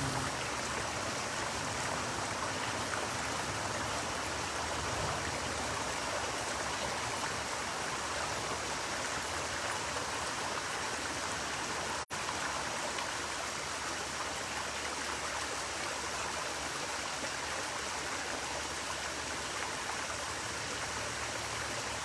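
Spring-fed stream running steadily over rocks, an even rushing of water, broken once by a momentary dropout about halfway through.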